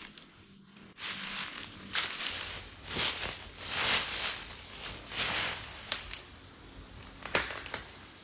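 Rustling and crunching of dry material in several swells about a second apart, with a sharp snap near the end.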